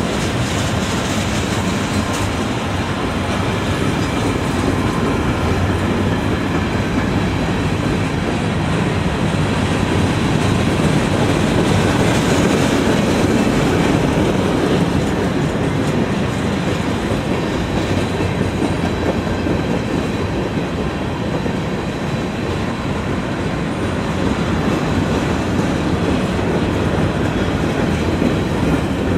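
Railroad cars of a train rolling by steadily, with a continuous rumble and the clickety-clack of wheels over the rails, and a faint thin squeal from the wheels.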